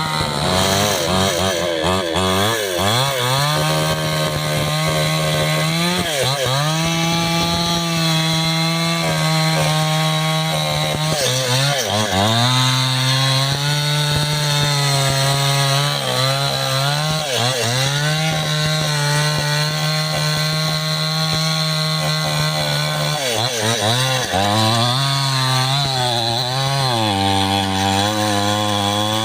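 Two-stroke chainsaw at full throttle cutting into the trunk of a large gmelina tree. Its high steady note sags and picks back up about every four to six seconds as the chain takes and eases off load.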